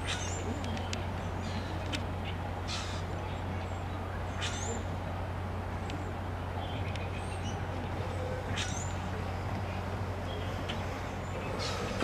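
Birds calling: short harsh calls every second or two, with thin high chirps in between, over a steady low hum.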